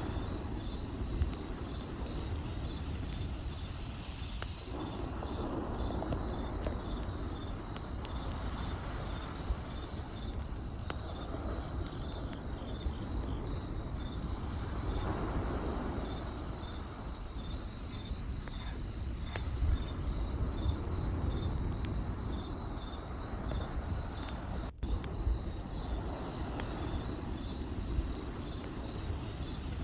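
Campfire crackling with frequent small pops, over crickets chirping in a steady, fast pulsing trill.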